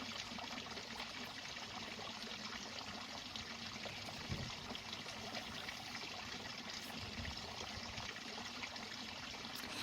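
Faint, steady roar of distant ocean surf, a continuous wash of noise without breaks.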